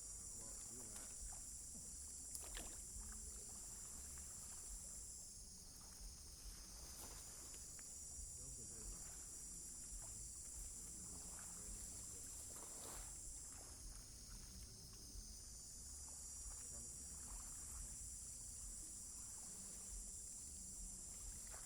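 A high, continuous insect chorus that swells and fades in long waves, strong for several seconds and then dipping about every seven or eight seconds. Scattered faint knocks are heard under it.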